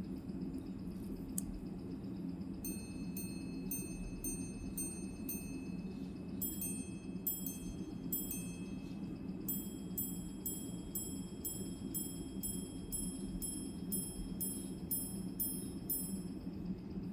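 Patek Philippe tourbillon minute repeater striking the time on its gongs. About eight slow even strikes for the hours, then a few paired two-tone strikes for the quarters, then a longer run of single strikes for the minutes. The strikes are evenly timed, the sign of a freshly serviced repeater chiming in time.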